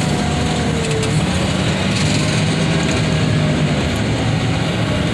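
Heavy equipment engine running steadily under load, with a faint whine that drifts a little in pitch.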